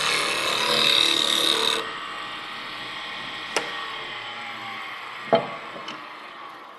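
Turning tool cutting a spinning wooden sphere on a wood lathe, a rough scraping hiss that stops about two seconds in. The lathe keeps running and gradually fades, with two sharp knocks, the louder one about five seconds in.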